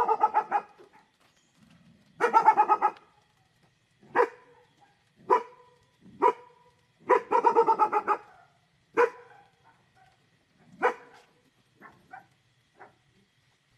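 A dog barking at something in the dark, in quick rapid-fire strings of barks broken by single barks, fading to a few faint barks near the end.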